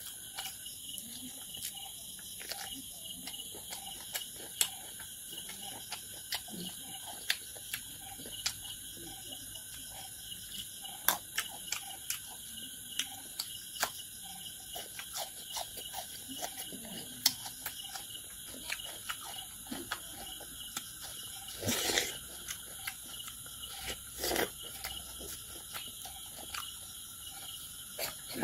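Close-up eating sounds from a man eating rice and pork with his fingers: chewing, lip smacks and sharp mouth clicks, with two louder, longer noises near the end. A steady high chirring of insects runs underneath.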